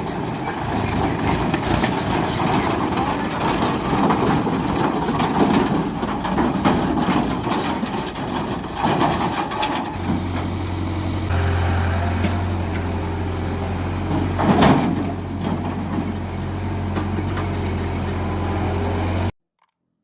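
Heavy diesel machinery running, with irregular clanks and knocks over the engine for about the first half. Then a steady low engine drone, broken by one sharp loud knock a few seconds later. The sound cuts off abruptly just before the end.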